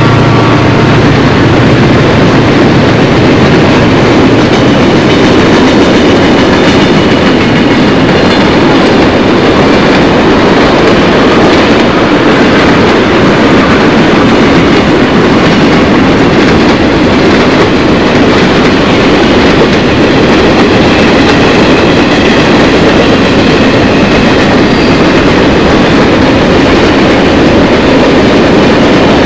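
A train rolling past close by: a loud, steady rumble of wheels and cars on the rails that goes on without let-up.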